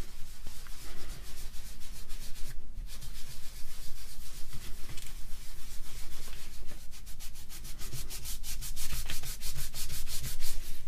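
Plastic housing of a vintage AEG BH25 rotary hammer being hand-rubbed back and forth with Novus 3, a fine abrasive plastic polish, in repeated strokes that get quicker toward the end.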